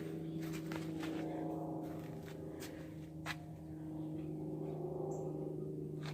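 A steady low hum made of several held tones, with a couple of sharp clicks in the middle.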